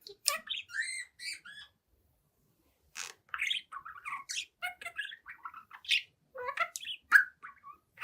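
Young budgerigar chattering and warbling in quick chirps and squawks: a short run, a pause of about a second and a half, then a longer busy run of chatter.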